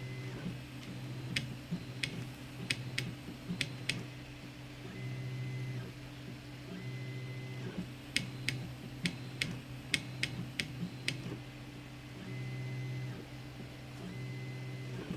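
Zonestar P802M 3D printer running a print: its stepper motors hum with a steady tone in stretches of about a second that start and stop. Two runs of sharp, quick clicks come in, one starting about a second in and another about eight seconds in.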